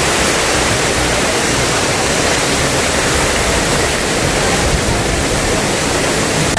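Steady, loud rush of falling water from a jungle waterfall or stream.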